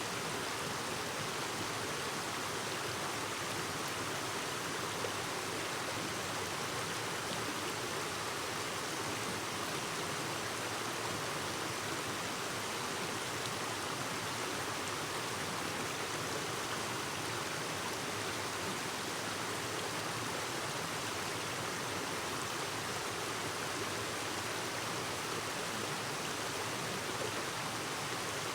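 Clear mountain stream babbling over rocks, a steady even rush of flowing water.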